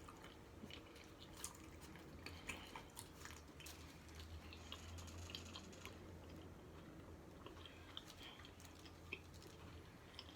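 Faint close-up chewing of a taco, with scattered small wet mouth clicks over a low steady hum.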